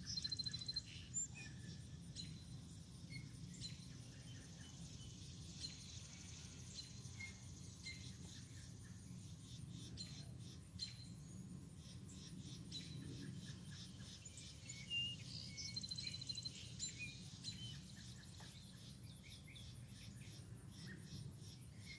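Faint high-pitched calls from a young bird, in short trills of rapid repeated notes near the start and again about fifteen seconds in, with scattered small chirps between, over a steady low outdoor background noise.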